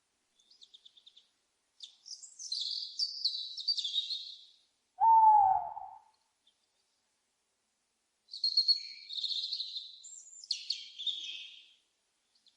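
An owl gives one hoot about five seconds in, the loudest sound, a call of about a second that drops slightly in pitch. Before and after it, songbirds sing in quick high chirps and trills.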